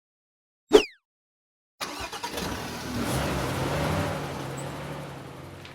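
A brief sound effect with a falling pitch. After a second of silence, a motor vehicle engine sound effect runs, growing louder and then fading away.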